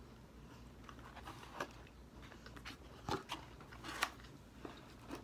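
A person chewing a mouthful of burger close to the microphone: scattered soft mouth clicks and smacks, with a few sharper ones about three and four seconds in.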